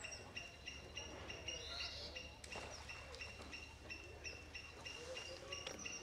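A bird calling the same short, high chirp over and over at an even pace, about three times a second.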